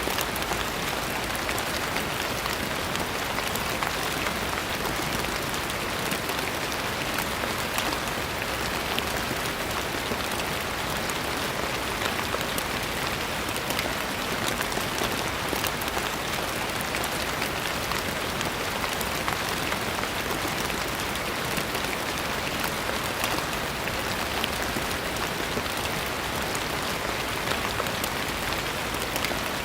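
Steady rain falling, a dense even patter of many drops hitting a surface.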